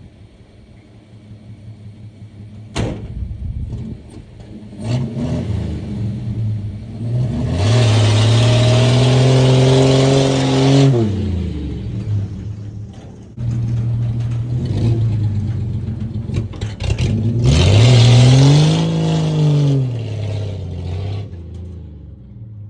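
1967 Dodge D100's 225 slant-six engine revved hard twice, its pitch climbing and then falling back each time. There is a sharp click about three seconds in.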